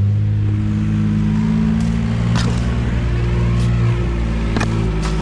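An engine running steadily at an even speed, its low hum holding the same pitch throughout, with several sharp clicks or knocks over it in the second half.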